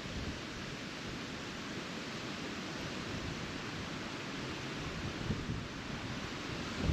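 Wind blowing steadily, with low buffeting on the microphone.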